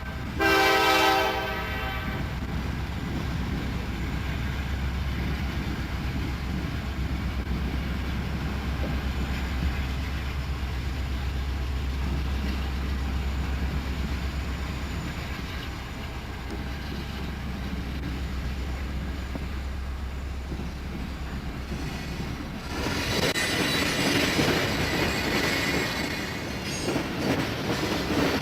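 Diesel freight train passing. The locomotive's horn sounds briefly at the start, then the diesel engines run with a steady low rumble. About two-thirds of the way through, louder wheel-on-rail noise comes in as the freight cars roll by.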